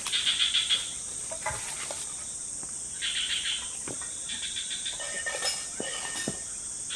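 Forest insects chirping in repeated pulsed trills over a steady high-pitched insect whine, with a few faint light knocks.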